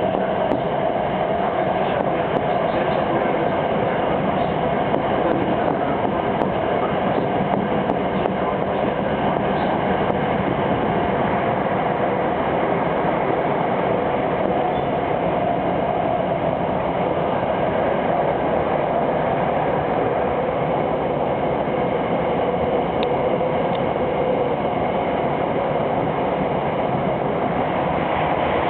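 Subway train running at speed through a tunnel, heard from inside the front car: a steady rumble of wheels on rail with a constant tone over it.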